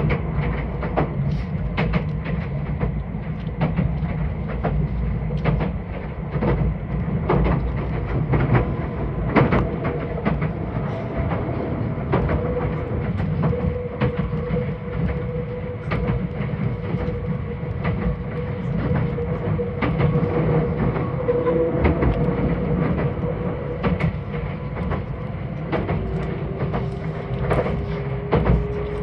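Meitetsu 2000 series μSKY electric multiple unit running at speed, heard from inside the passenger cabin: a steady low rumble with the wheels clacking over rail joints and a faint steady motor whine.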